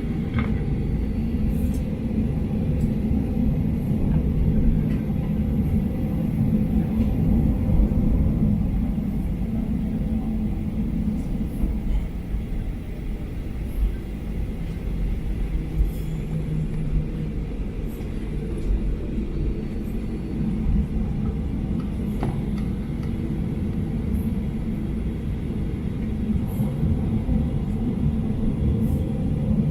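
Steady low rumble of a jet airliner heard from inside the passenger cabin as the plane readies for takeoff.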